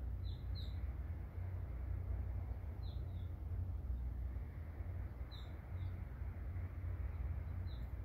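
A small songbird giving short, falling chirps, mostly in pairs, about every two and a half seconds, over a steady low rumble.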